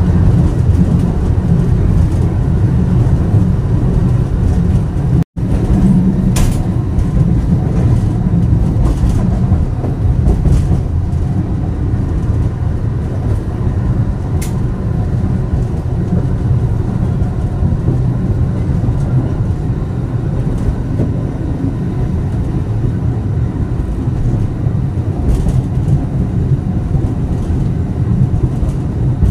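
Alishan Forest Railway passenger car running on the mountain line, heard from inside the carriage: a steady low rumble of wheels on track, with a few light clicks.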